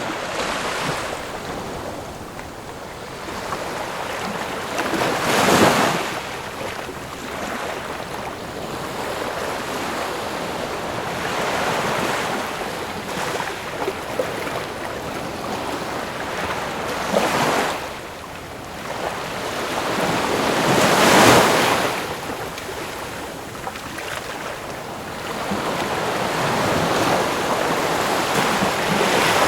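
Ocean waves breaking on a shore, a steady wash of surf with several louder surges as waves crash and recede.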